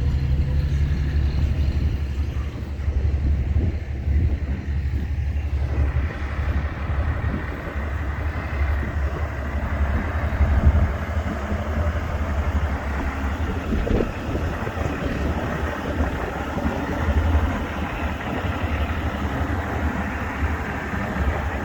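Vehicle engines running with a steady low rumble, the outdoor noise growing fuller about six seconds in.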